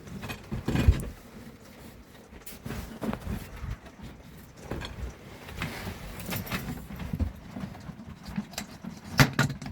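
Irregular footsteps and knocks inside a camper, with a sharper thump about a second in and another near the end.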